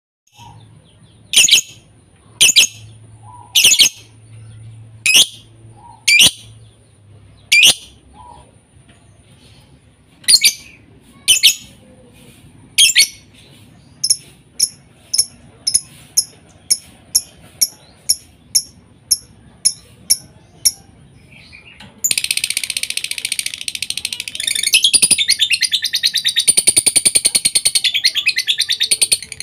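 Lovebird calling: loud, sharp, high chirps about one a second, then a quicker run of shorter chirps, then over the last seven seconds a long unbroken rapid chatter.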